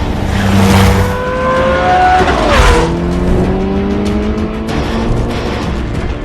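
Car engines revving hard in a film car chase, their pitch climbing. About two and a half seconds in, a car goes past with a falling pitch. Music plays underneath.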